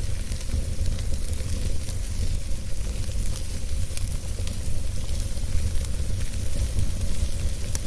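Wood fire burning in a fireplace: a steady low rumble of flames with a continuous hiss and many small crackles, with one sharper pop near the end.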